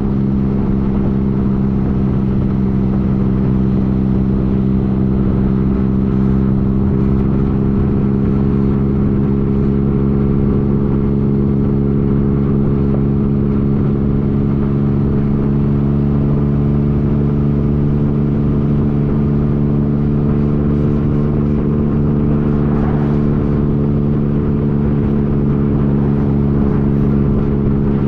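2015 Yamaha FJ-09's inline three-cylinder engine running at a steady engine speed, its pitch holding constant throughout, with a low rumble underneath.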